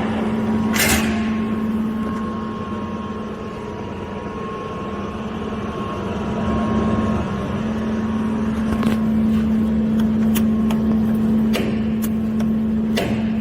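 Clausing Colchester 15-inch geared-head engine lathe running with a steady hum. A few sharp clicks or knocks come from levers or tooling, one about a second in and three more in the last few seconds.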